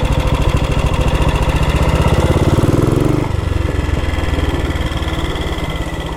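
A 1962 Matchless G80CS's 500 cc single-cylinder four-stroke engine idling, a steady, rapid beat of firing strokes that drops a little in level about three seconds in.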